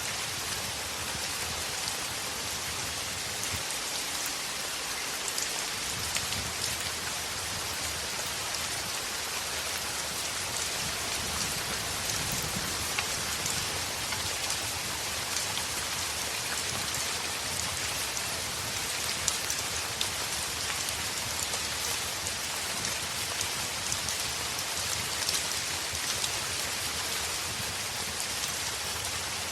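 Heavy rain falling steadily as an even hiss, dotted with scattered sharp ticks. A low rumble swells underneath twice, about five and about eleven seconds in.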